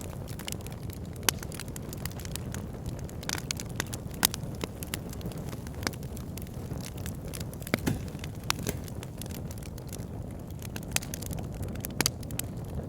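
Wood fire burning in a log burner: a steady low rumble of flames with irregular sharp crackles and pops from the logs.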